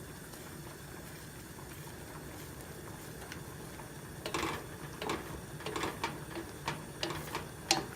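Spoon stirring thick gravy in a pot, knocking and scraping against the pot in irregular strokes from about halfway through, over a steady low hum.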